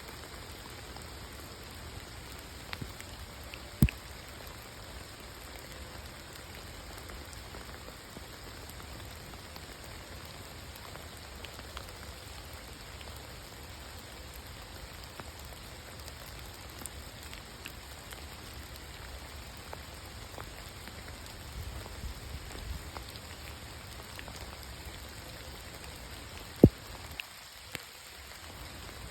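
Steady rain falling, with a few sharp, louder drips, the loudest about four seconds in and near the end.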